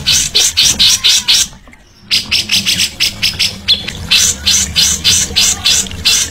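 A songbird giving a fast run of harsh, rasping chatter notes, about four or five a second, with a short pause about one and a half seconds in.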